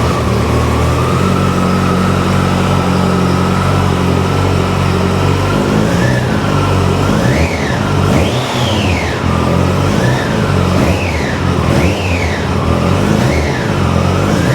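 2008 Yamaha FZ1's inline-four engine, just started, idling steadily, then blipped on the throttle in a series of short revs, each rising and falling quickly, from about six seconds in.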